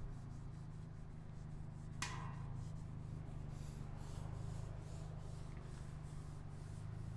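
Outdoor street ambience on a windy day: a steady low rumble of wind on the microphone and traffic, with rubbing, rustling noise. About two seconds in comes one short sharp click with a quick falling squeak.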